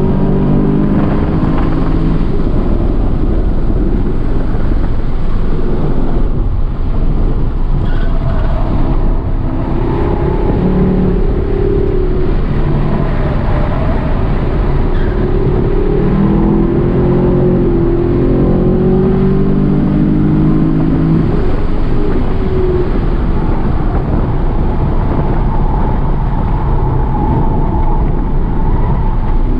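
Chevrolet Camaro V8 heard from inside the cabin while being driven hard on a race track. The engine note climbs under acceleration and falls away when the driver lifts, several times, over steady tyre and wind noise.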